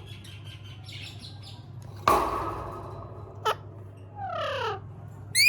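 Green parrot calling: a harsh, noisy squawk about two seconds in, then a brief sharp call, a falling whistled call, and a louder rising-and-falling call near the end.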